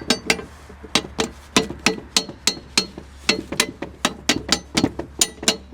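About twenty light hammer taps in quick, uneven succession, three to four a second, striking a part of the vintage mitre box to loosen it.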